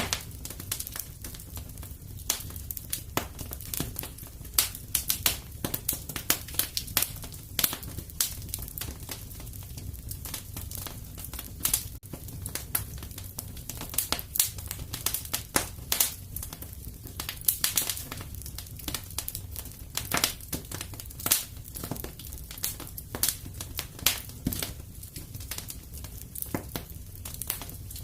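Fireplace fire crackling: a dense, irregular run of sharp pops and snaps, some louder than others, over a steady low rumble.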